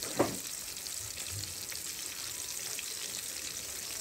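Turmeric-coated chicken pieces frying in oil in a large metal wok, a steady sizzle. A single sharp knock sounds just after the start.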